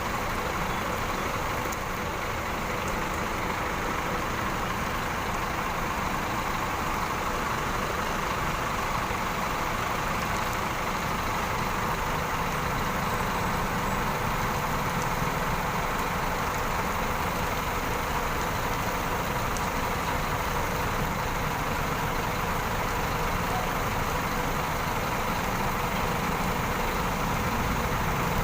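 Large bus diesel engine idling steadily.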